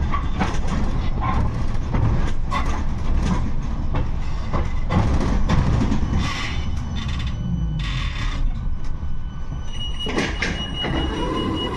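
A 71-628-02 tram running along its rails: a steady low rumble with frequent clicks and knocks from the wheels on the track. About ten seconds in, a steady high whine sets in.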